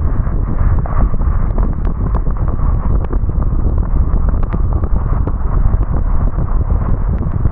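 Car driving in the rain. There is a steady low rumble of tyre and road noise, with scattered sharp ticks from raindrops striking the car.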